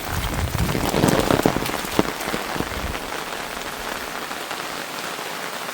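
Rain falling steadily, with many small drop ticks. The first few seconds are louder and denser, with sharper knocks and a low rumble, before it settles to an even hiss.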